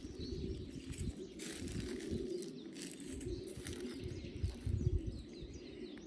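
Outdoor ambience with birds chirping faintly, over a low rumble and a few brief rustles.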